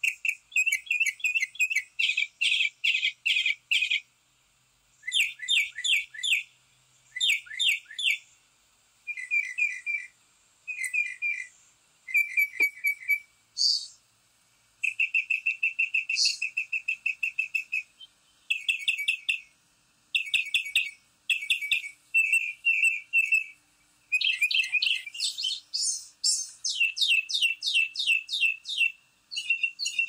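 Songbirds singing and chirping: phrases of rapid repeated notes, short trills and quick downward-sliding notes, each a second or two long, with brief pauses between.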